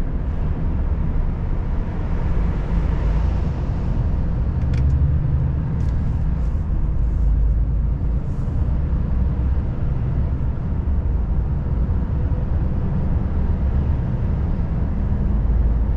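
Volvo FH540 truck's 13-litre six-cylinder diesel engine running steadily under way, a constant low rumble mixed with road and tyre noise heard from inside the cab. A few faint clicks come about five to eight seconds in.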